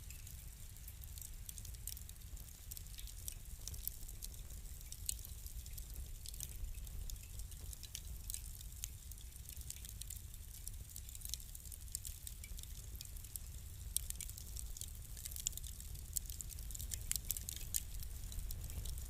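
Wood fire crackling: scattered sharp pops and snaps over a low, steady rumble, with the pops coming thicker near the end.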